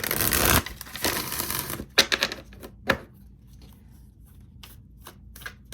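A deck of tarot cards being shuffled by hand: two quick rustling runs of cards in the first two seconds, then a few sharp card snaps and faint taps as the shuffling slows.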